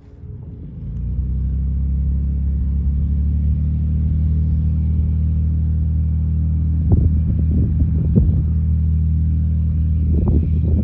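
Cirrus SR22T's turbocharged flat-six engine and propeller running with a steady low drone that swells up over the first second or so and then holds. Wind buffets the microphone in gusts twice in the second half.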